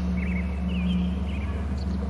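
A few faint, short bird chirps that slide up and down in pitch, over a steady low hum.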